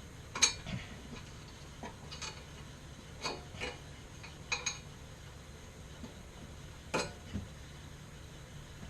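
Light metallic clinks and clanks, mostly in pairs, during an engine install: small metal parts or tools knocking together.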